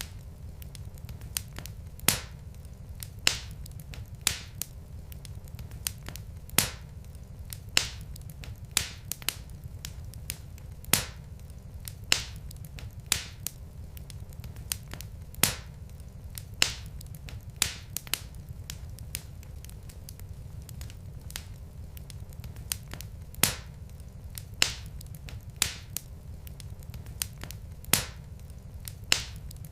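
Log fire in a fireplace crackling: sharp, irregular pops about once a second over a steady low rumble.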